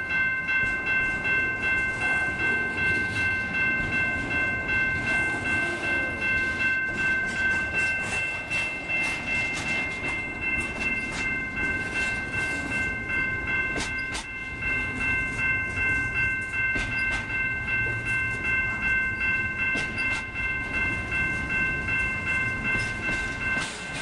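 Double-stack container train's well cars rolling past close by. The wheels click over the rail joints in a steady rhythm of about two to three beats a second, under a steady high squeal and a low rumble.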